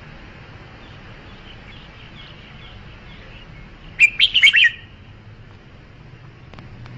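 Red-whiskered bulbul singing: a few faint chirps, then about four seconds in a short, loud phrase of quick warbled notes lasting under a second, over a steady background hiss.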